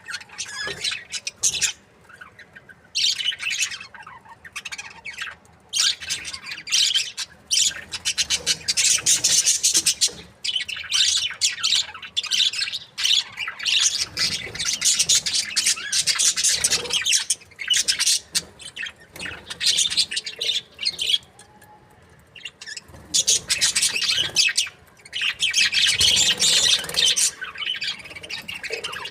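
Budgerigars chattering and chirping in rapid, high-pitched runs broken by short pauses.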